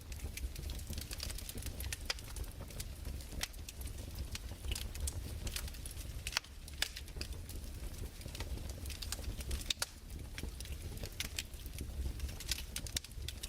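Wood fire crackling, with scattered irregular pops and snaps over a steady low rumble.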